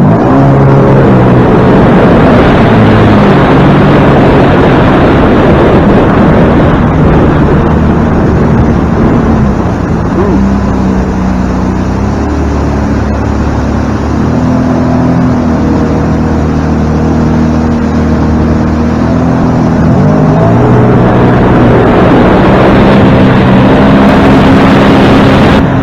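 Motorboat engine running under way, its pitch stepping up and down several times as the throttle changes, over a steady rush of wind and water.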